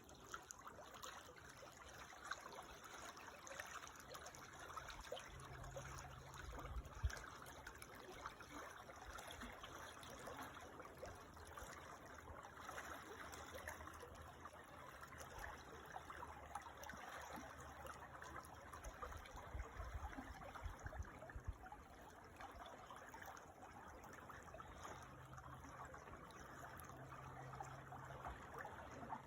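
Small creek trickling and babbling steadily, heard faintly. There is a brief low thump about a quarter of the way through, and some low rumbling about two-thirds in.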